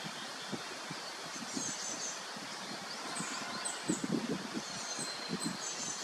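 Small birds chirping and twittering in the background, thin and high-pitched, over a steady outdoor hiss, with low rumbling bumps from about four seconds in.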